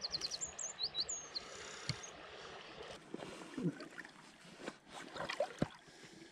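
A small songbird sings in the first second or so: a fast run of about ten identical high notes, then a few slurred whistles. After that come scattered soft knocks and rustles of fly line and rod being handled, over light wind on the microphone.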